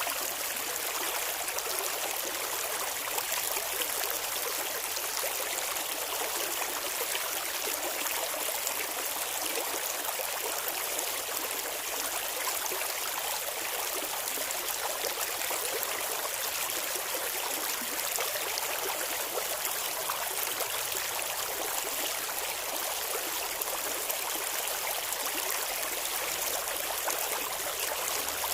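Clear river water flowing and babbling steadily: an even, splashing hiss that sits mostly in the upper range, with little low rumble.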